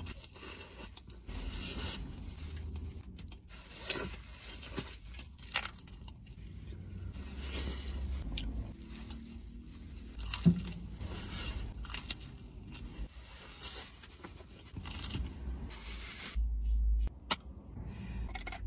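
A person eating cake close to the microphone: bites and chewing, with scattered small clicks and scrapes, over a low steady rumble.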